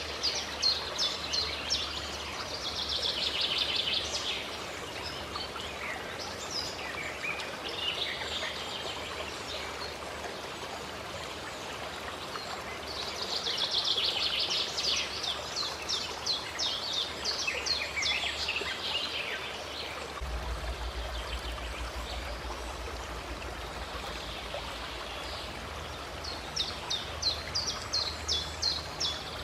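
Steady running water of a stream, with songbirds singing over it: three bouts of fast, high, repeated notes, near the start, in the middle and near the end.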